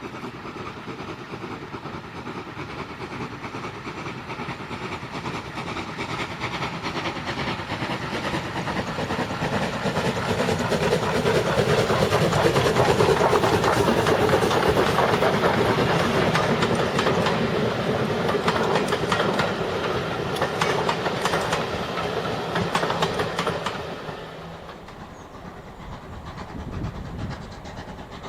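A steam train passing by: it grows louder over about ten seconds, is loudest for roughly ten seconds with rapid clickety-clack of wheels over rail joints, then falls away quickly near the end.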